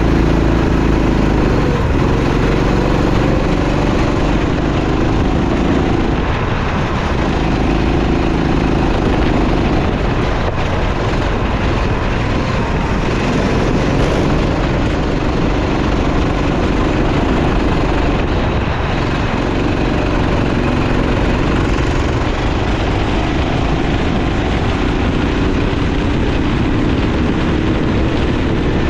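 Racing kart engine running at speed, its pitch rising and falling as it accelerates and slows, over a steady rushing noise.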